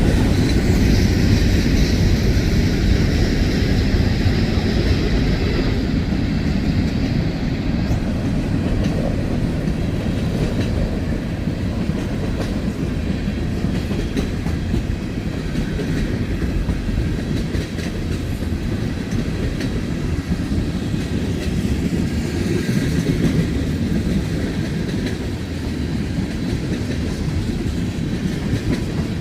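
Freight cars rolling past on a moving train: a steady rumble with the clickety-clack of wheels over the rail joints. A faint high whine falls slightly over the first several seconds, then cuts off.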